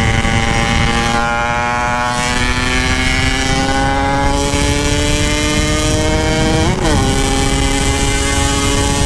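Yamaha RX-King 135 cc two-stroke single-cylinder motorcycle running under way, its engine pitch climbing slowly and steadily as it pulls in gear, with a brief wobble in pitch about seven seconds in.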